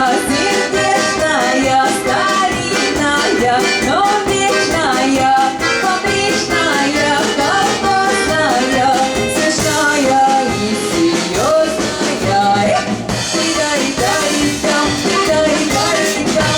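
Live music from a Russian folk-style song ensemble: an instrumental dance passage with a steady beat.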